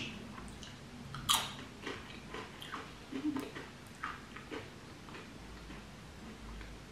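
A person taking a crunchy bite of food about a second in, then chewing quietly with small mouth clicks.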